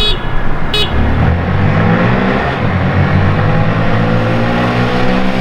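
Two short horn beeps, then Honda Grom minibike engines accelerating hard, their pitch climbing steadily: the start of a roll race.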